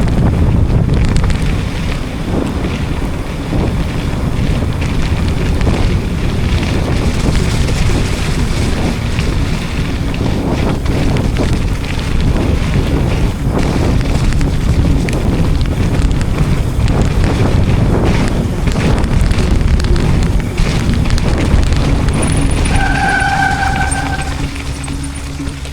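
Mountain-bike ride on a wet trail: wind buffets the microphone over the rumble of tyres and the knocks of the bike on rough ground. Near the end a brief steady tone sounds.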